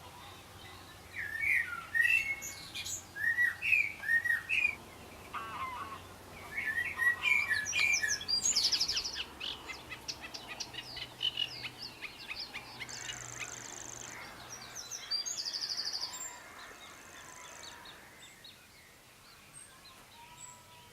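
Several songbirds singing: short chirping, sliding phrases, then a fast rattling trill with a few high buzzy notes. The singing thins out over the last few seconds.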